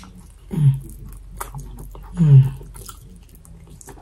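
A person eating a fried chicken wing up close: wet chewing and mouth clicks, with two short falling hummed "mm" sounds of enjoyment, about half a second in and again about two seconds in.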